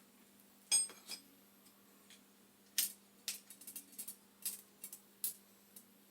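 Small metal parts and tools clinking and rattling during hands-on work on a gas boiler's pilot assembly. A single ringing metallic clink comes about a second in, then a run of light clicks and rattles near the middle.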